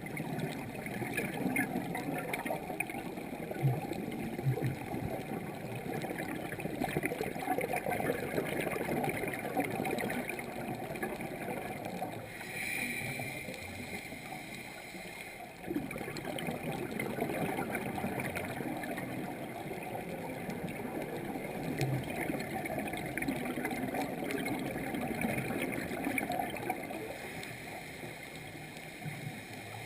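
Scuba divers' regulator exhaust bubbling and gurgling underwater, a steady wavering rush of bubbles.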